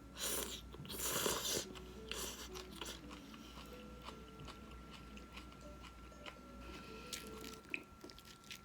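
A person eating: crunchy bites and chewing, loudest in the first two seconds, then quieter chewing with small clicks, over a faint steady high tone.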